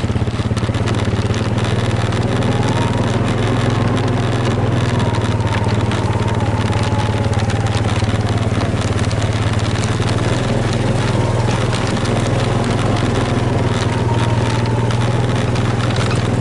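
A small engine running steadily, with a constant low drone and a faint higher whine that wavers slightly in pitch.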